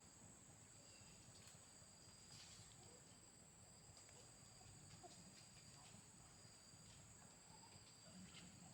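Near silence with faint, steady high-pitched insect trilling, like crickets, and a few soft ticks.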